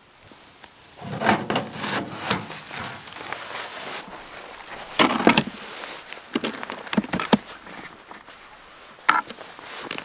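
Titanium camp wood stove and its rigid pipe sections being handled and fitted together. Irregular knocks, scrapes and clinks, the loudest about a second in and again about five seconds in, with a short ringing clink near the end.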